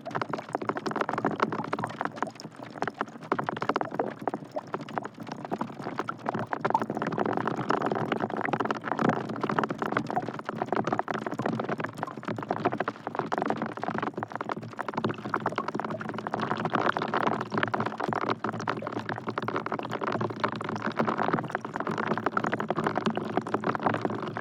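Rain falling into a bucket of water: a dense, steady patter of drops splashing into the water.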